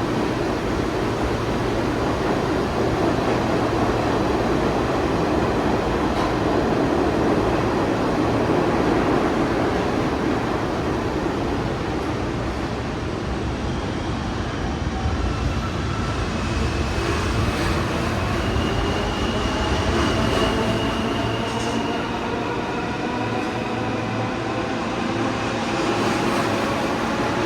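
New York City subway train running through the station with a steady rumble, then its traction motors whining in several tones that rise steadily in pitch as it accelerates over the last ten seconds, with a brief high squeal in the middle.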